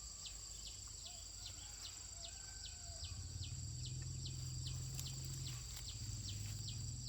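Outdoor insect chorus: a steady high trill with a short falling chirp repeated about two or three times a second. A low steady drone comes in about three seconds in.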